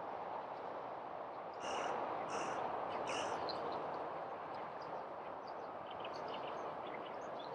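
Three short, harsh bird calls in quick succession, each a bit under a second apart, starting under two seconds in, over a steady hiss of outdoor background noise; a few faint chirps follow later.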